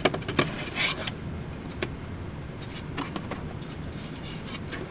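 Workbench handling sounds: a few light clicks near the start, a short rustle about a second in, and scattered faint ticks after.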